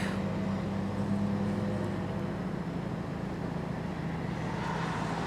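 Steady car engine and road noise heard from inside the cabin while driving, with a constant low hum.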